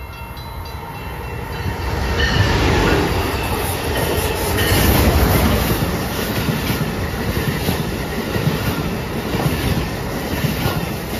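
Amtrak passenger train running past the platform: a steady rush of wheel and rail noise that swells about two seconds in, with repeated wheel clacks as the cars go by.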